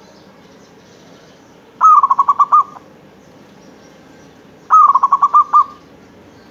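Zebra dove (perkutut) cooing: two call phrases about three seconds apart, each a short opening note followed by a quick run of about six rolling coo pulses.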